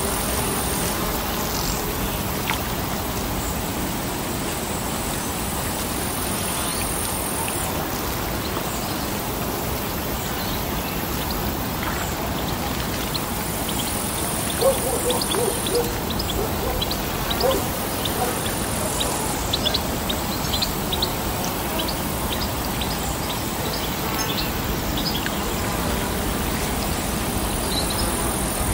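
Steady rushing water noise, with scattered short high chirps and clicks through the middle of the stretch.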